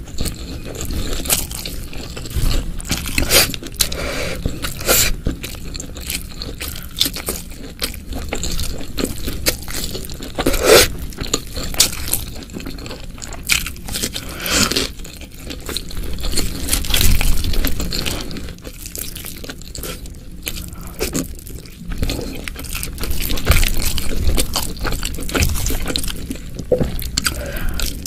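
Close-miked eating: biting and chewing with crunchy, wet mouth sounds and irregular sharp clicks, some louder than others.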